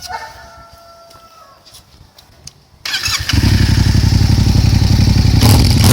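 Yamaha MT-07 parallel-twin with an Arrow aftermarket exhaust being started: about three seconds in the starter turns it over briefly, the engine catches and settles into a loud, rhythmic idle.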